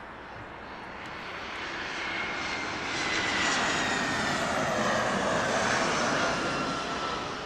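Jet airliner passing close by: engine noise swells to a peak in the middle and eases near the end, with a high whine falling steadily in pitch as it goes past.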